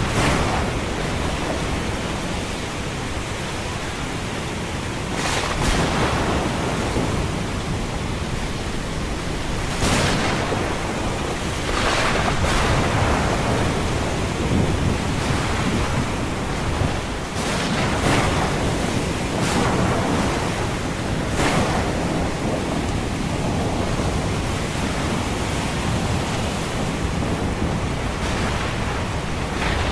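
Ocean surf: a steady wash of waves, with louder breakers swelling and falling away every few seconds.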